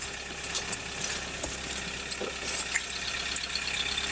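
Melting snow dripping and trickling off a car: many small irregular drips and crackles over a steady hiss of running water.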